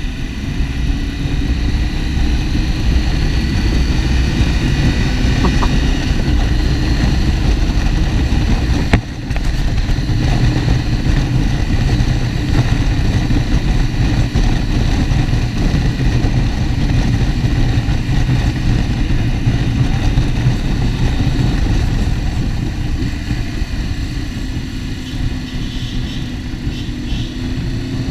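Motorcycle engine running steadily while riding, heard through a helmet-mounted camera with heavy wind rumble over the microphone. A single sharp click sounds about nine seconds in.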